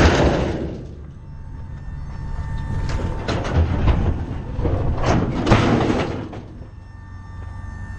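A vehicle engine running low and steady, with several loud bursts of clattering and banging about three and five seconds in.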